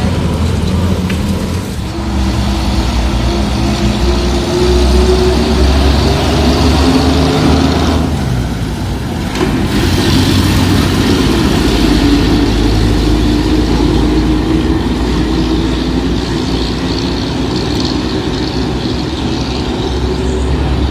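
Bedford TK truck engine pulling along under load. Its note rises steadily, breaks off for a moment about eight seconds in, then rises again.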